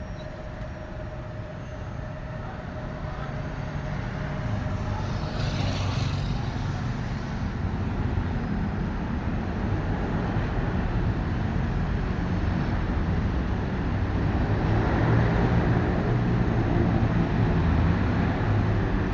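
A motor vehicle's engine running amid road traffic noise, the sound growing steadily louder.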